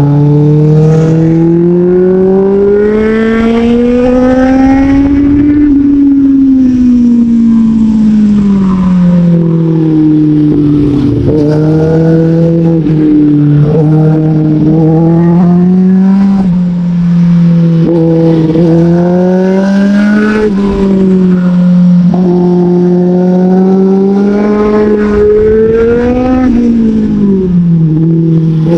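A sport motorcycle's engine heard on board while riding. Its pitch climbs and falls smoothly over several seconds at a time as the throttle opens and closes, with a few sudden steps in pitch between.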